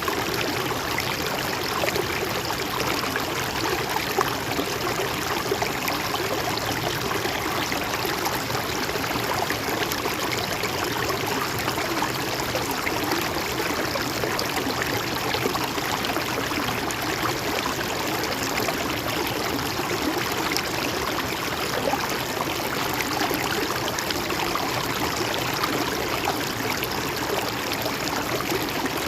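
A stream flowing over stones, a steady rush of running water with fine splashing and gurgling.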